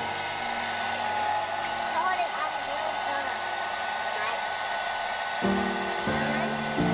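Steady rushing air noise from an electric blower such as a hair dryer. Sustained music chords come in about five and a half seconds in.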